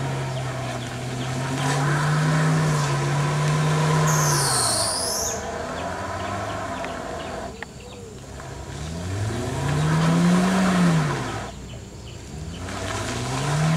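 Toyota Avanza engine revving in repeated surges, rising in pitch, easing off and rising again, as the car struggles for grip with its wheels spinning in loose dirt on a steep rutted track. A brief high chirp sounds about four seconds in.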